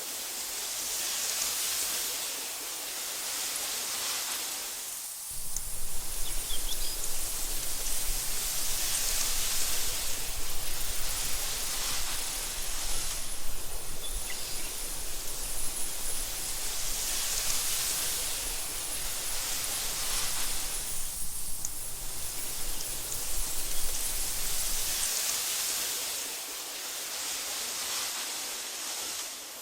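Wind through tall meadow grass: a soft, steady hiss that swells and eases in slow gusts every few seconds. A low rumble comes in underneath about five seconds in and drops away near the end.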